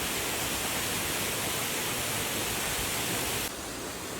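Steady rush of falling water from Powerscourt Waterfall on the River Dargle, dropping to a somewhat lower level about three and a half seconds in.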